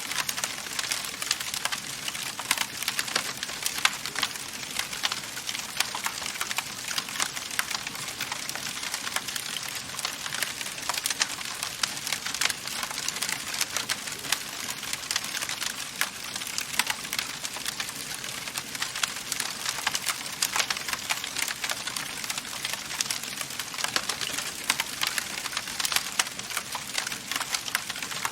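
Wood fire burning in a fireplace, crackling steadily with dense, irregular snaps and pops over a soft hiss.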